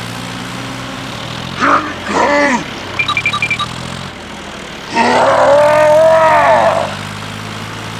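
A cow mooing once, long and loud, about five seconds in, over a steady low engine hum. A shorter call comes about two seconds in, and a quick run of light high ticks just after three seconds.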